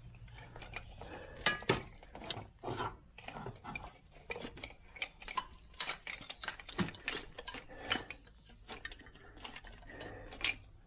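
Hand tools and metal parts being worked: irregular clicks, knocks and scraping, several a second.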